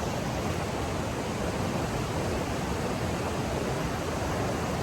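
Steady rushing of water flowing at a small dam, with the flow low and not spilling over the dam.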